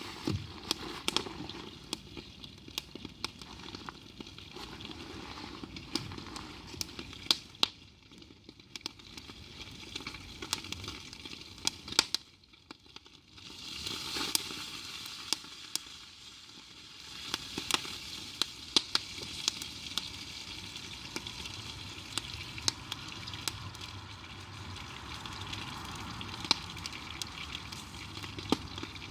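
Food sizzling in a pan over a crackling campfire, with frequent sharp pops and snaps from the burning wood. It drops away briefly about twelve seconds in.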